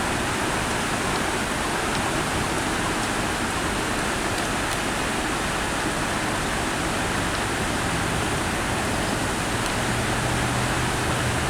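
Steady road traffic noise, an even wash of vehicle sound. A vehicle's low engine hum comes in near the end.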